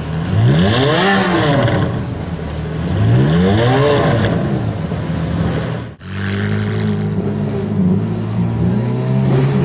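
Ferrari F430's V8 through a Capristo exhaust, revving up and falling back twice. About six seconds in the sound cuts off abruptly, then the engine comes back at a steadier pitch.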